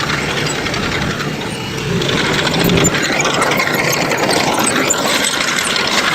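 Engine of a heavy construction machine running steadily, getting a little louder about two seconds in.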